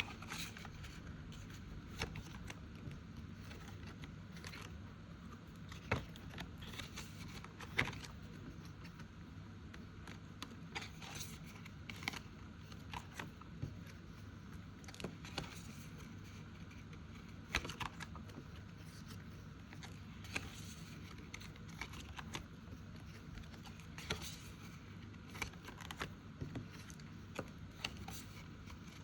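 Faint paper and plastic rustling with scattered light clicks and taps over a steady low hum: cash envelopes and challenge sheets being handled and put into a budget binder.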